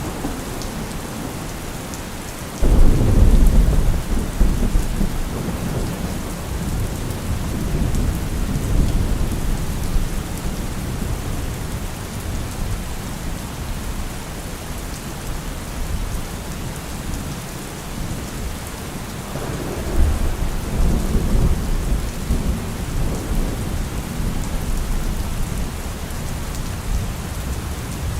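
Steady rain falling, with thunder: a loud rumble breaks in suddenly near the start and rolls away over several seconds, and a second, weaker roll comes about two-thirds of the way through.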